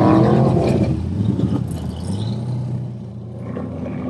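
A car engine running with a low rumble, louder for the first second and then settling lower.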